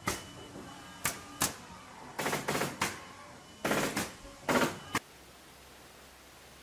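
Epson dot-matrix printer running in short rattling bursts, about eight in five seconds, from its print head and carriage, then only a faint steady hiss.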